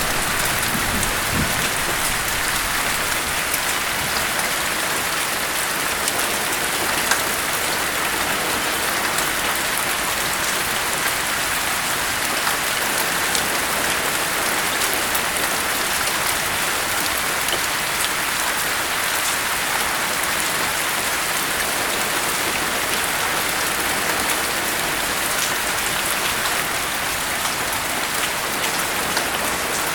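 Steady rain falling, an even hiss with scattered drop ticks. The tail of a low thunder rumble fades out in the first second or so.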